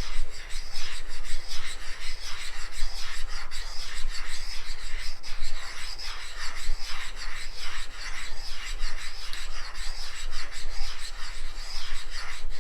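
A metal spacer being hand-lapped on a flat lap with wet lapping compound: a continuous gritty scraping that swells and fades with each figure-8 stroke. The abrasive compound is cutting the metal.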